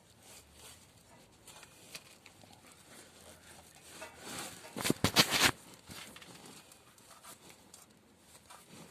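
Objects being handled during hands-on work: faint scattered clicks, then a quick run of several sharp clacks about five seconds in.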